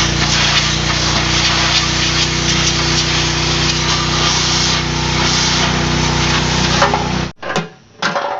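Gas pressure washer running: the steady hum of its small engine, which needs a new carburetor, under the loud hiss of the water jet. It cuts off abruptly about seven seconds in, followed by two short spurts.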